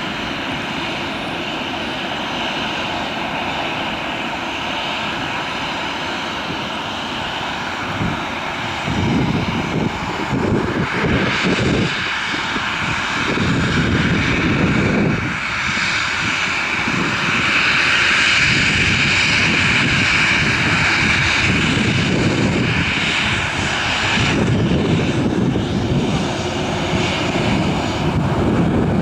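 Boeing 737-800's CFM56 turbofan engines running at takeoff power, a jet roar with a high whine on top. The rumble grows louder and rougher from about eight seconds in.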